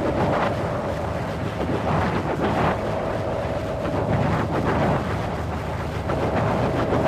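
Wind blowing steadily, swelling and easing in gusts, with a faint steady whistling tone running through it.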